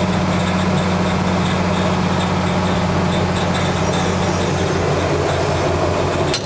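Steady mechanical hum from a parked airliner's onboard systems on the flight deck, a low drone with a higher steady tone. A sharp click comes near the end, after which the hum changes.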